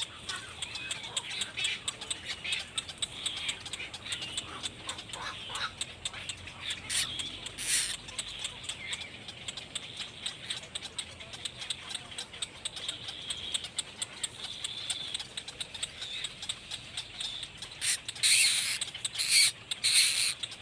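Nestling birds in a nest calling: a continuous stream of high, thin chirps and squeaks, with several louder, harsher bursts near the end.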